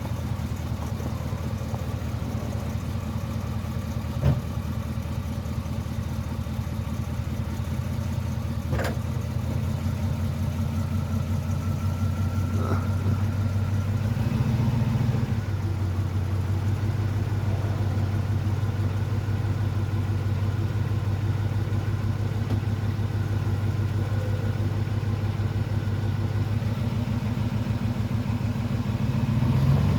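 An engine idling steadily, with brief rises in speed about halfway through and again near the end. There is a sharp click about four seconds in, and a fainter one a few seconds later.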